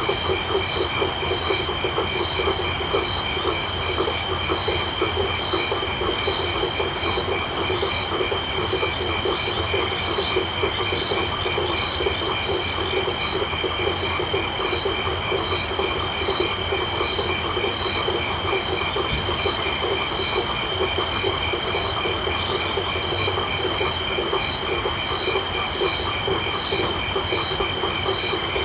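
Tropical night chorus of crickets and frogs: a steady high insect trill, higher calls pulsing about twice a second, and a dense chorus of frogs lower down.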